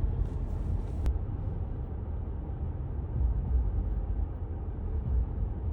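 Steady low rumble of road vehicle noise, with a single click about a second in.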